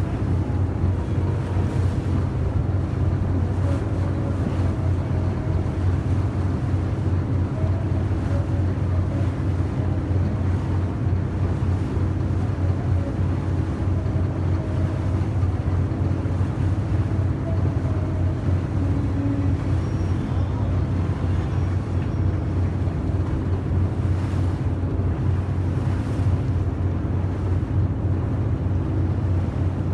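A yakatabune pleasure boat's engine running with a steady low drone, over a hiss of wind and water.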